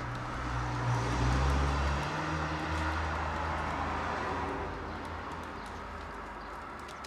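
A motor vehicle's engine hum, strongest in the first couple of seconds and then fading, over steady outdoor background noise.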